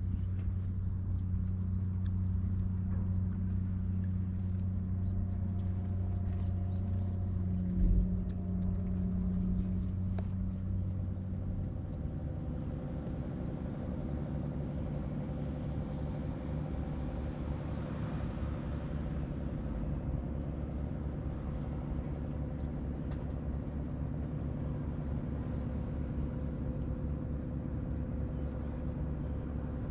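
Boat engine running steadily. About twelve seconds in its note drops to a lower, rougher rumble. There is a single knock about eight seconds in.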